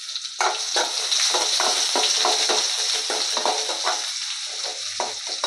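Sliced onions with curry leaves and dried red chillies sizzling in hot oil in a metal kadai. From about half a second in, a spatula stirs and scrapes them round the pan in rapid repeated strokes over the steady sizzle.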